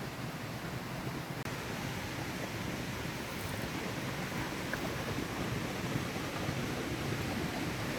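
River water rushing steadily, with a brief break about one and a half seconds in.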